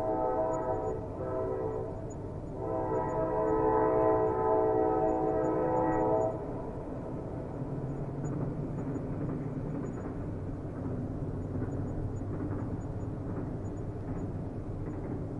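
Train horn sounding twice, a short blast ending about a second in and a longer one from about two and a half seconds to about six seconds, where it stops sharply. Under it and afterwards, the steady low rumble of a running train.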